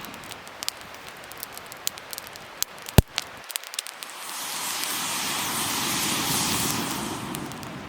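Wood fire crackling with scattered small pops and one loud, sharp pop about three seconds in. In the second half a rushing hiss swells up and then fades.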